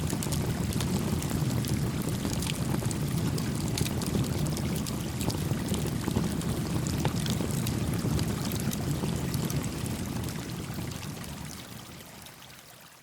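Small campfire crackling with scattered snaps over the steady babble of a small stream. The whole fades out over the last few seconds.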